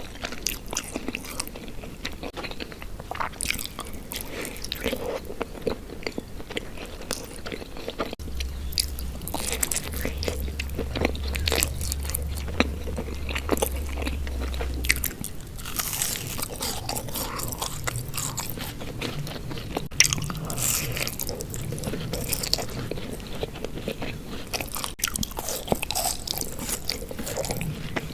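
Close-miked biting and chewing of Indian sweets, with many crisp crunches and mouth sounds. A low steady hum sits under the chewing for several seconds in the middle.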